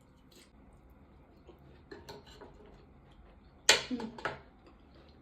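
Cutlery clinking and tapping on a plate: a few light clicks, then one sharp clink about two-thirds of the way in followed by two lighter taps.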